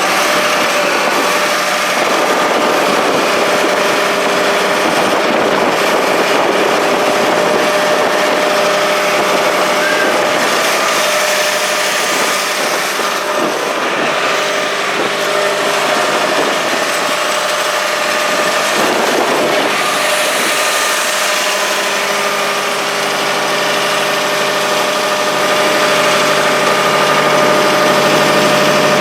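John Deere 5500 tractor's diesel engine running steadily at idle, with a constant mechanical hum and whine. It gets slightly louder near the end.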